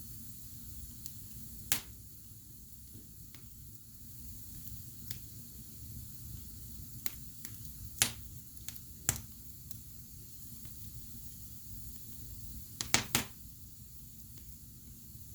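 Wood fire in a fireplace crackling over a low steady rumble, with sharp pops: one a couple of seconds in, two about a second apart around the middle, and a quick run of three near the end.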